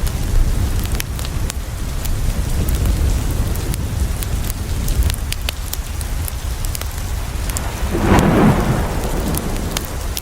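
Steady rain on a window with a deep low rumble underneath and many sharp ticks and crackles scattered through it. About eight seconds in, a louder rushing burst swells up and dies away within about a second, like a crack of thunder.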